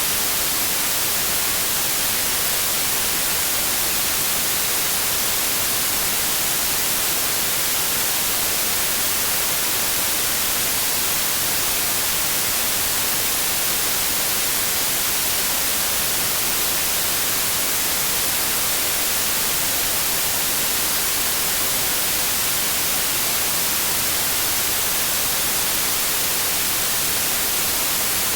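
Synthetic white noise: a steady, even hiss with equal energy at all frequencies, unchanging throughout.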